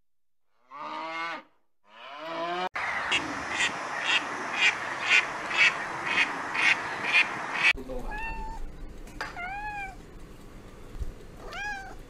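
Calves mooing twice, then a mallard quacking about twice a second, nine times, over a steady hiss, then a cat meowing three times with rising-and-falling calls.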